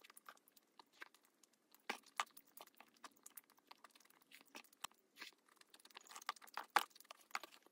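Close-miked chewing and mouth sounds of someone eating tteokbokki rice cakes in spicy sauce, with many short sharp clicks and smacks; the loudest comes near the end.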